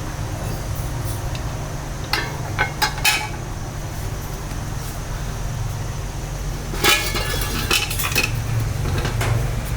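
Kitchenware clinking: two short runs of sharp metal-and-crockery clinks, about two seconds in and again about seven seconds in, over a steady low rumble.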